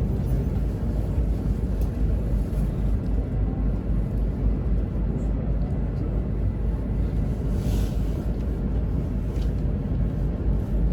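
Steady low running rumble of a Shinkansen E2 series train, heard from inside the passenger cabin, with a brief hiss about eight seconds in.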